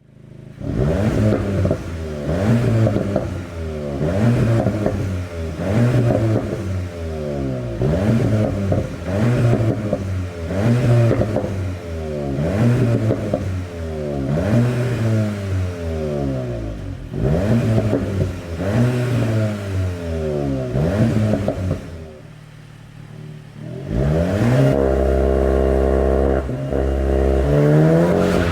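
VW Golf 8 GTI Clubsport's turbocharged 2.0-litre four-cylinder engine, with an Akrapovic exhaust, is revved over and over while standing, the revs climbing and falling about every second and a half. About 22 seconds in it settles to a quieter idle, then about two seconds later it is held at steady raised revs.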